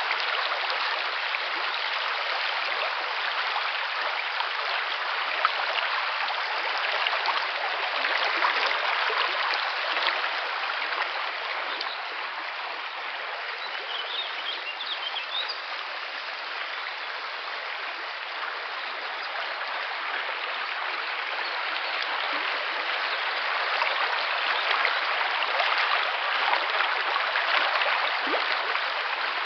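River water flowing: a steady rush of running water that swells slightly now and then.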